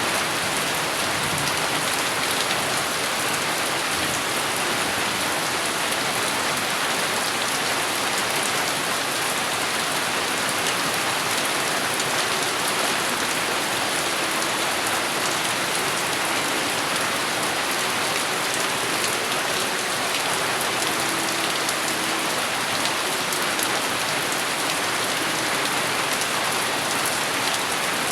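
Steady rain falling, an even, unbroken hiss of drops; no thunder stands out.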